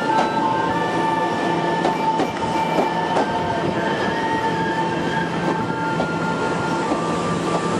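EMU700 electric commuter train moving slowly along a station platform: a steady rumbling run with wheels clicking over the rails and a steady high whine.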